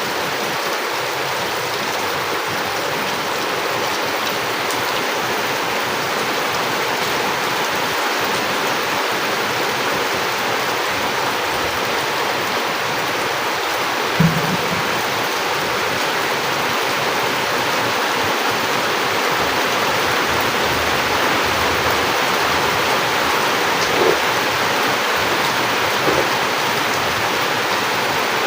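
Heavy rain falling steadily in a dense, even hiss. One short low thump comes about halfway through, and two faint ticks near the end.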